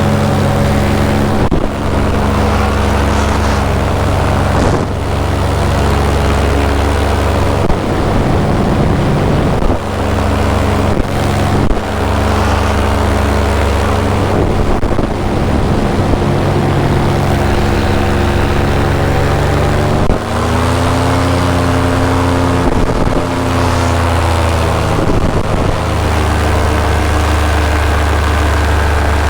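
Paramotor engine and propeller running steadily under power in flight; a little past the middle the engine note dips and comes back up as the throttle shifts, then holds steady again.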